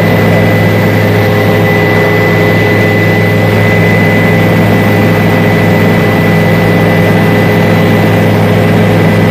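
Helicopter in flight, its engine and rotor running steadily and loud: a constant low drone with a thin, steady high-pitched whine above it.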